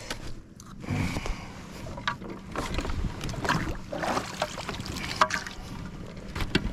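Knocks, clicks and water noise from handling gear aboard a fishing kayak, with a faint steady hum starting about a second in.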